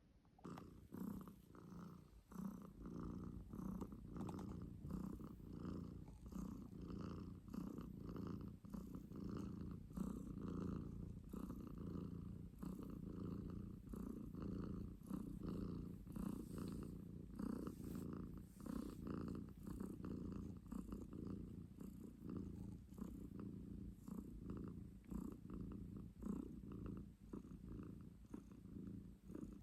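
A domestic cat purring: a steady low rumble that swells and dips with its breaths.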